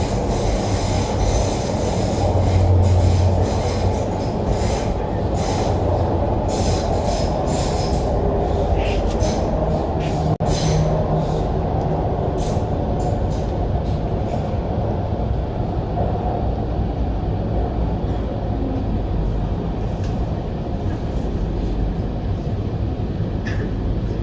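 MTR Island Line Q-Train in motion, heard from inside the car: a steady loud rumble of wheels on rail, with a run of short high-pitched wheel squeals through the first half that thin out later on.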